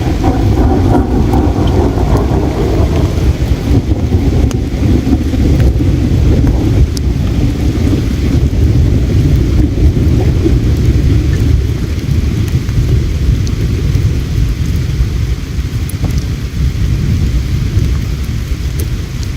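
River water flowing with a steady, loud low rumble, and now and then a sharp crackle from a campfire.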